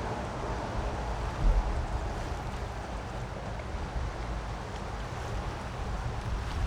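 Creek water rushing steadily, with a low, uneven rumble of wind on the microphone that surges briefly about a second and a half in.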